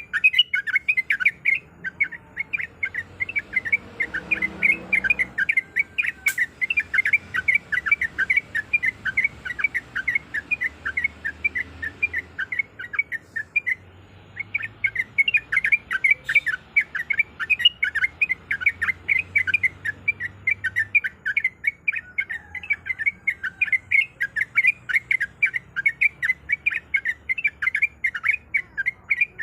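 Yellow-vented bulbul (trucukan) singing a long, fast run of chirping notes, several a second, with a short break about halfway.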